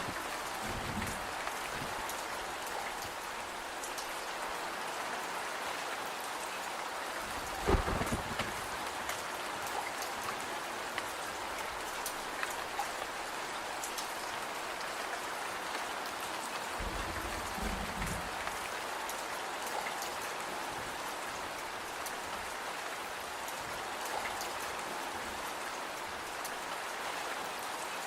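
Steady rain falling on a surface, mixed with scattered small crackles and pops from a wood fire in a fireplace. There is one sharp, louder pop about eight seconds in, and a few brief low rumbles.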